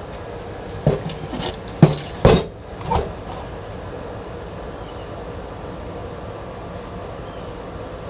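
A quick run of metallic clanks and knocks, like hard scrap parts being handled and dropped together, about a second in and lasting a couple of seconds. After that there is only a steady background hum.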